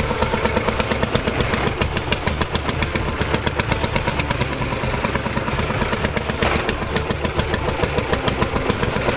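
Lanz Bulldog tractor's single-cylinder two-stroke hot-bulb engine running with a steady, even knocking beat.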